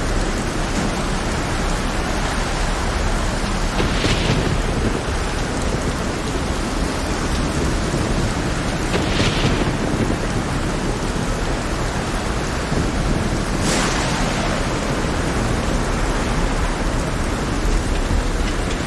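Heavy rain over a steady low rumble, with three brief hissing surges: about four, nine and fourteen seconds in.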